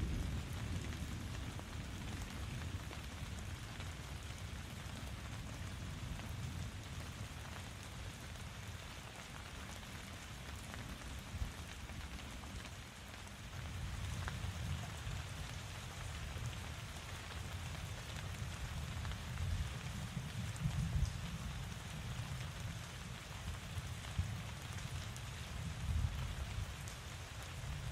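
Steady rainfall, drops pattering on surfaces, with a low rumble underneath that swells and eases and a few louder single drops.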